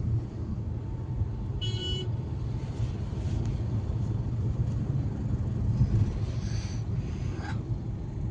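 Steady low rumble of a moving road vehicle, with a short horn toot a little under two seconds in.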